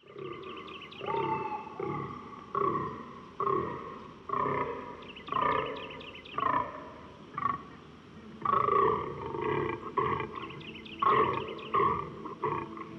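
Fallow deer buck groaning, the male's rutting call: a long series of deep calls, about one a second.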